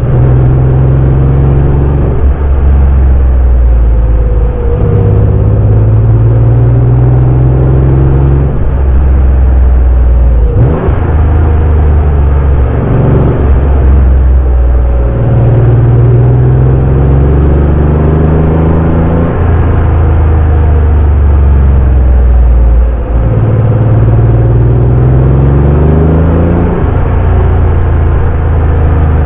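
Porsche 911 (964) air-cooled flat-six engine under way, the pitch climbing through the revs again and again and dropping sharply at several gear changes, about 2, 5, 11 and 23 seconds in.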